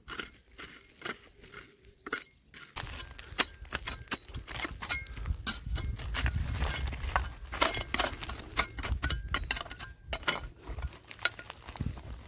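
Stones and gravel clinking and knocking as they are dug through: rapid, irregular small impacts that grow much denser about three seconds in, over a low steady rumble.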